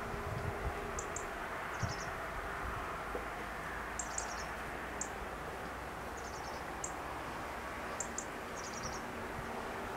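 Small birds chirping: short high chirps and quick little trills, irregularly every second or two, over a steady outdoor background hiss with a faint hum.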